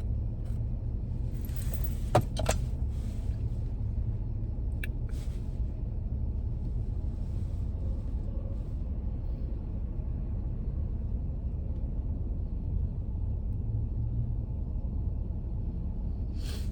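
Steady low rumble of a car heard from inside the cabin, with a few short clicks about two seconds in and another near five seconds.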